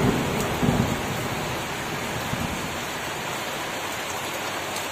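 Rain falling steadily: an even hiss of rain without a break.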